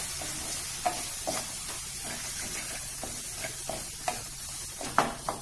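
Onion-tomato masala with ground spices sizzling in oil in a metal kadhai while a spatula stirs and scrapes it, the spices frying until the oil separates. Irregular scrapes and knocks of the spatula against the pan, with two sharper ones near the end.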